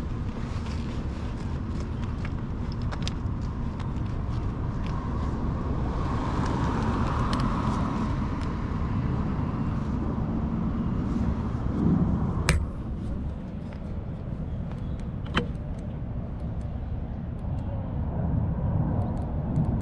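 Steady street noise from a moving bicycle: a low rumble with traffic passing by, and two sharp clicks about twelve and fifteen seconds in.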